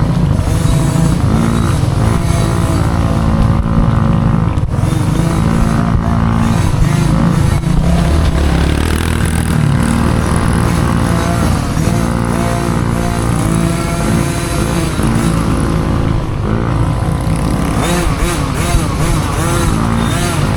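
Dirt bike engine running hard while racing, revving up and falling back again and again with no pause.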